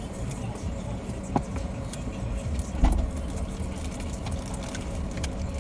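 Car engine running steadily at a low rumble, with two short knocks, the second and louder about three seconds in.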